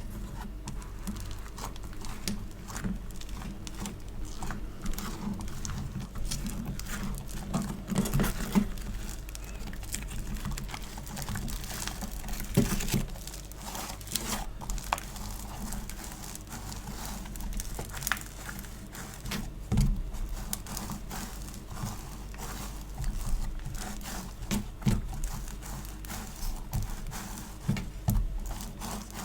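Hands squishing, pressing and pulling apart sticky store-bought foam clay or slime-like putty, giving a dense, irregular stream of small sticky clicks and crackles with a few louder pops scattered through.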